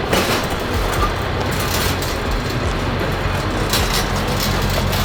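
Steady low rumble of a moving vehicle, with road noise.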